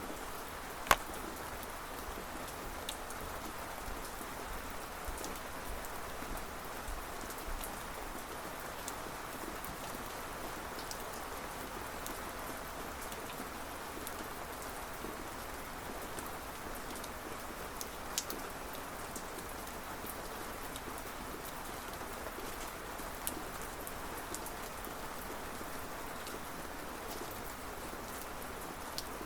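Steady rain falling, with a few sharp, louder drop strikes standing out from the patter, the loudest about a second in.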